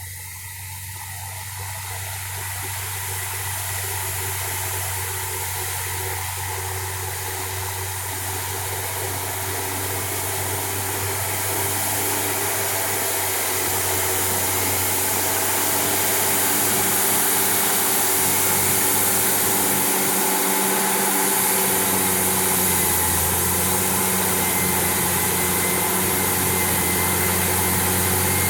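Caterpillar D8N bulldozer's diesel engine, which has no emissions equipment, running steadily as the dozer pushes topsoil. It grows louder through the first half, then holds.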